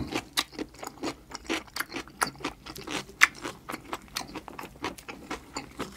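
Close-miked chewing and eating of kimchi and curry: irregular wet crunches and mouth clicks, several a second.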